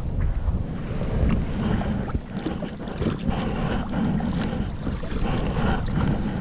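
Wind buffeting the action-camera microphone with a heavy low rumble, while water splashes and slaps around the kayak in quick irregular bursts.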